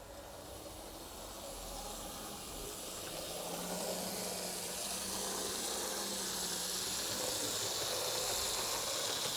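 Lima HO scale model of an NS class 1600 electric locomotive running on the track, its motor and wheels making a steady whirring hiss that grows louder as it comes nearer, with a faint low hum partway through.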